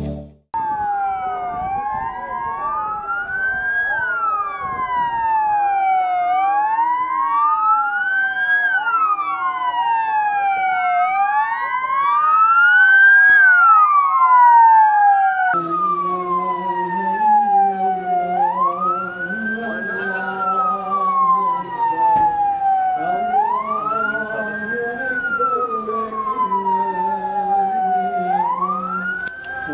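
Emergency vehicle sirens wailing, several overlapping, each pitch rising and falling every couple of seconds. About halfway through, a single siren carries on over a lower steady droning sound.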